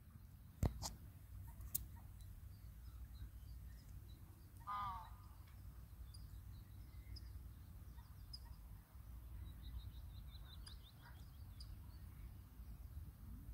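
Quiet outdoor ambience: faint high bird chirps and a short trill over a low steady rumble, with one louder, short pitched bird call about five seconds in. Two sharp clicks in the first two seconds.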